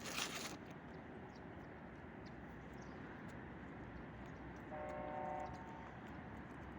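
Steady outdoor noise with a short rustling burst at the start, and a single brief horn toot about five seconds in.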